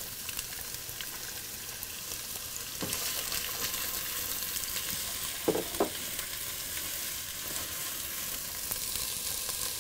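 Diced onions sizzling in hot oil in a nonstick pot, stirred with a silicone spatula; a steady hiss with a few soft stirring noises.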